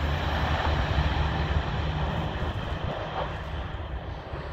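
Train passing on the main line and fading away: a low rumble with wheel-on-rail noise that slowly dies down.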